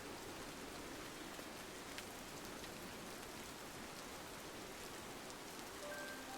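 Steady rain on window glass, an even hiss with occasional faint drop ticks. A few soft music notes come in near the end.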